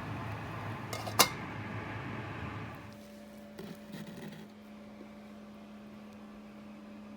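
A steady hiss with a sharp clack about a second in stops near the three-second mark. A microwave oven's steady low hum then runs on.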